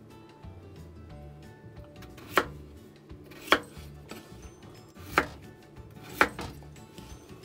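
Kitchen knife cutting through a peeled potato onto a wooden cutting board: four sharp knocks, unevenly spaced, as the blade hits the board.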